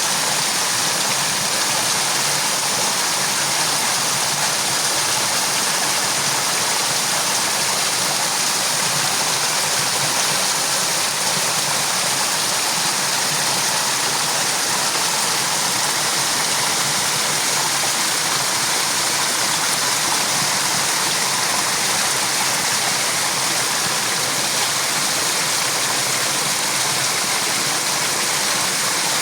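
A steady, even rushing noise, like running water, unchanging in level.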